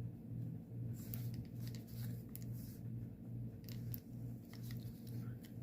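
Faint handling of embroidery floss and fabric: a few brief, soft scratchy sounds over a steady low hum.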